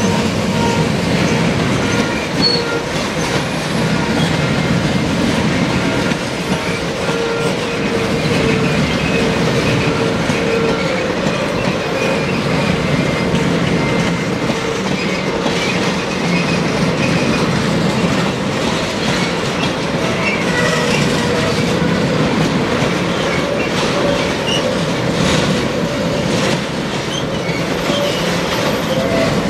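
Freight train tank cars rolling past at steady speed: a continuous rumble of steel wheels on the rails, with thin squealing tones from the wheels coming and going.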